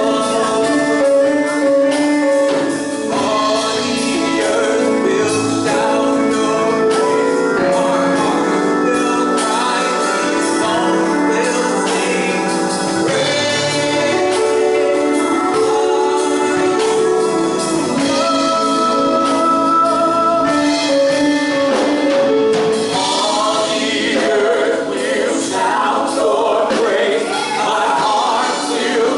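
Gospel music: a church choir singing with instrumental backing.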